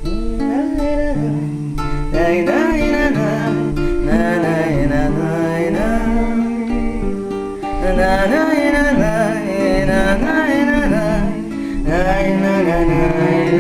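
Live acoustic guitar music: a wordless instrumental break between verses of a Russian romance, with a wavering melody line over the guitar accompaniment.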